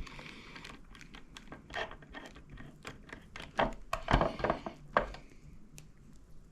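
Irregular metallic clicks and clinks of a hand ratchet and its small parts being handled and fitted together, with a few louder knocks in the middle.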